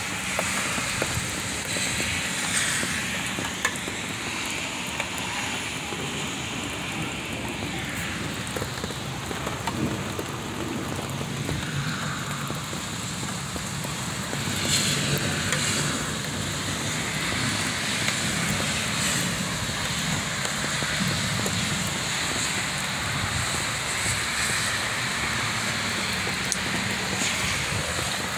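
Heavy rain falling on wet pavement, a steady dense hiss that swells a little about halfway through.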